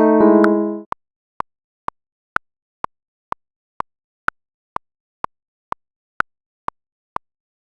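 A sustained keyboard chord dies away about a second in, then a metronome ticks alone at about two clicks a second, every fourth click higher and accented.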